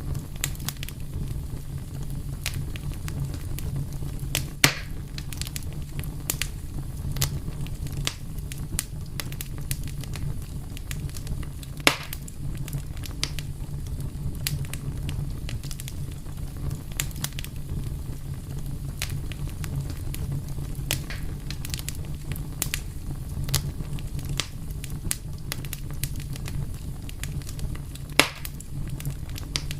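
Fire crackling: a steady low rumble under frequent small crackles, with three louder pops, about five seconds in, about twelve seconds in, and near the end.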